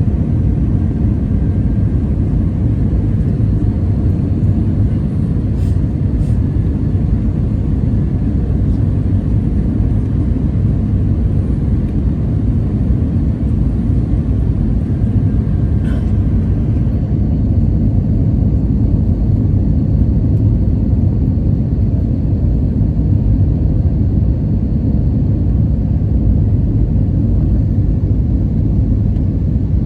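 Cabin noise of an Airbus A320 descending toward landing: a steady, loud low rumble of airflow and engines, with a couple of faint clicks.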